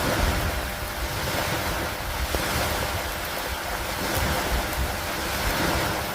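Steady rain falling, with a constant low rumble underneath that swells and eases gently.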